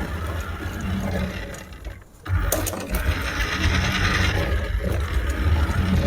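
Small electric motor and plastic gearbox of a radio-controlled toy whirring; it stops briefly about two seconds in, then starts again.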